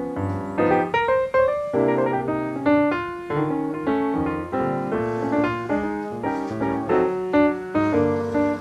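Background piano music with a steady rhythm of struck notes and chords.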